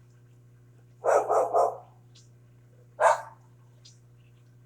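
A dog barks three times in quick succession about a second in and once more near three seconds, over the steady hum of a running microwave oven.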